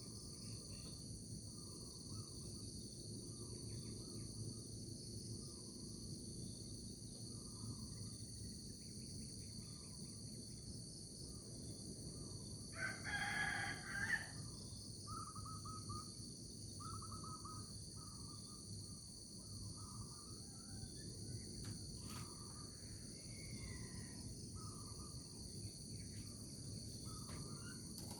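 A rooster crows once, loudly, about halfway through, over a steady high drone of insects and a string of short bird chirps repeating about once a second.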